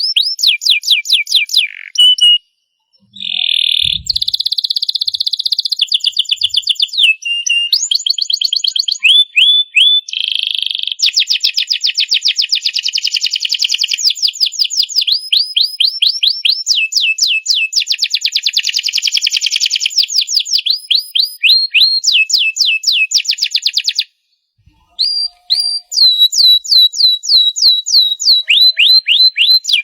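Domestic canary singing a long, continuous song of fast repeated trills and rolls, with brief pauses about two and a half seconds in and again near twenty-five seconds.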